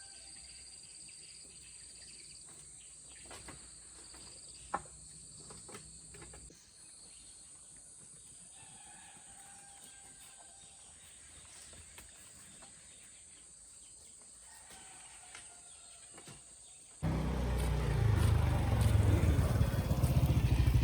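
Steady high-pitched chirring of insects with a few faint clicks. About seventeen seconds in, a much louder low rumble cuts in abruptly and runs on.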